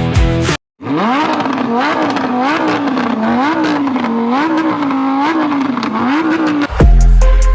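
A car engine revving: its pitch climbs sharply, then rises and falls over and over as the throttle is blipped. Music with a heavy bass cuts in near the end.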